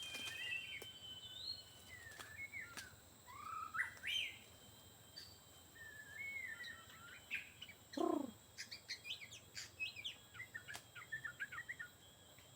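White-rumped shama (murai batu) singing: a string of varied whistled phrases that glide up and down, then a quick run of short chirps near the end.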